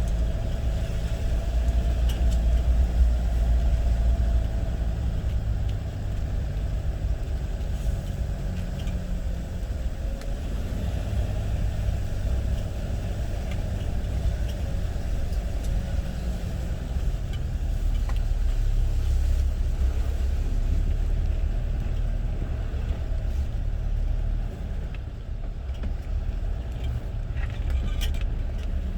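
Steady low rumble of a motor vehicle running, swelling and easing slowly, with no sharp events.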